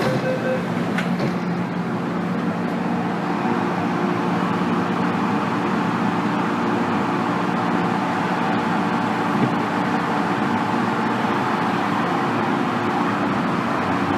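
MTR M-Train electric multiple unit running steadily, heard from inside the passenger car: wheel-on-rail rumble with a steady hum from the running gear underneath.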